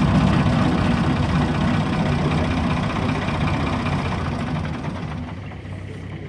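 An engine running steadily and fading gradually over a few seconds.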